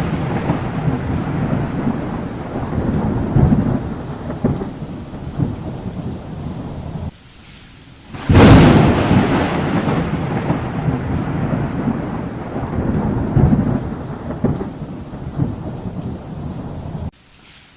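Thunderstorm: thunder rumbling over steady rain, fading out briefly about 7 seconds in, then a sudden loud thunderclap about 8.5 seconds in that rolls off into long rumbling.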